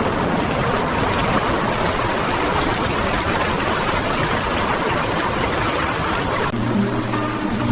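Fast-flowing river water rushing in a steady, even wash. Near the end, background music comes in under it.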